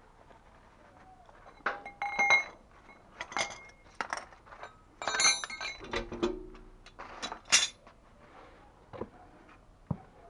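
A series of sharp metal clinks and knocks with short ringing tones over several seconds, as metal tools or fittings strike metal plumbing.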